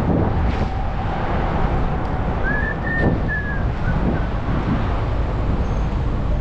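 Wind rumbling on the microphone during a ride, with road noise underneath. A brief high whistling tone rises and falls about halfway through.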